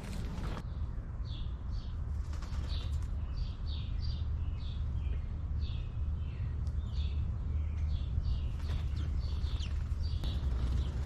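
Small birds chirping in short repeated notes, about one or two a second, over a steady low rumble.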